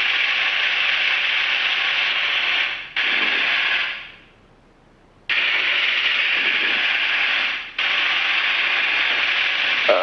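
Steady hiss on a Cessna Citation CJ4's cockpit headset and radio audio during the climb just after takeoff. It fades out and snaps back on abruptly three times, with one cut-out of about a second of near silence in the middle.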